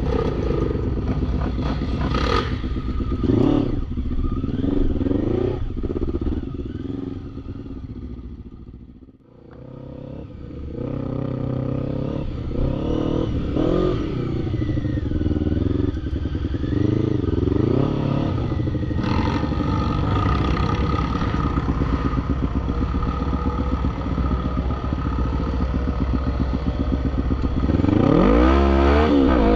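ATV (quad bike) engine revving up and down repeatedly, with rattling from the machine. The level drops briefly about nine seconds in, and the engine revs up hard again near the end.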